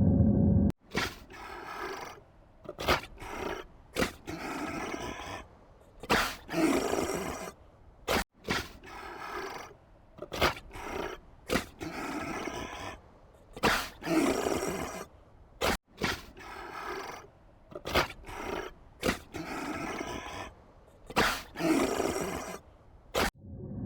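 A farm animal calling loudly, in short sharp sounds and one longer call with strong harmonics. The same few-second stretch plays three times in a row, with abrupt cuts between.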